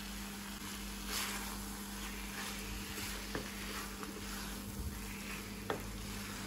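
Chicken liver masala frying in a kadai, a low steady sizzle with soft scraping swells as a wooden spatula stirs it, and a couple of faint taps. A steady low hum runs underneath.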